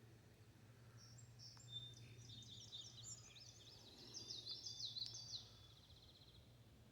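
A songbird singing a quick, jumbled string of high notes for a few seconds, ending in a short trill, faint over a steady low hum.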